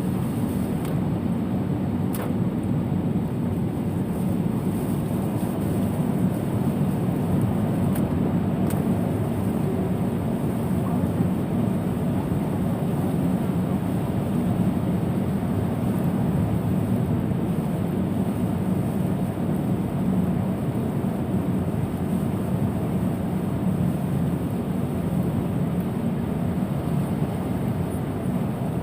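Steady road and tyre noise of a car driving on a rain-soaked road, heard from inside the cabin as a continuous low rumble.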